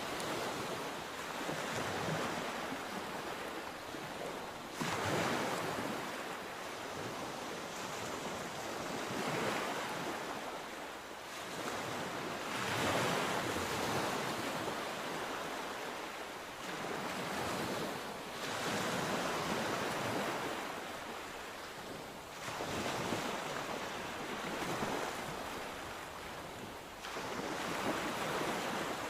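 Sea waves: a steady wash of surf that swells into a fresh surge every three to four seconds.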